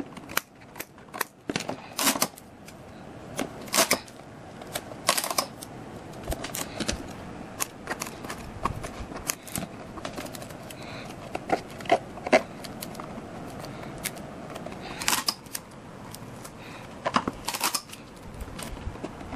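Paper and cardboard parts of a model being worked by hand: irregular clicks, taps and rustles.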